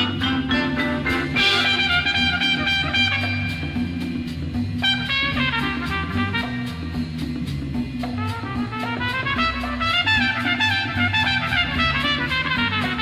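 Late-1960s jazz-rock band playing an instrumental passage: horn lines over a steady bass figure and drum kit with a regular cymbal beat.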